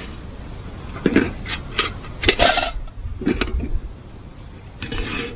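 Camping gear being handled: a series of sharp knocks and clinks, with a short noisy burst near the middle.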